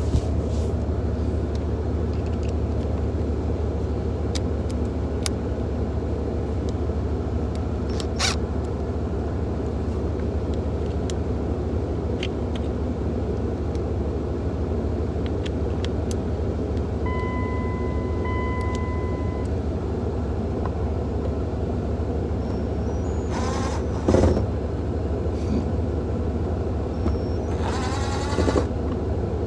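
2001 Dodge Ram 1500's engine running with a steady low rumble. About halfway through, a short electronic chime beeps twice.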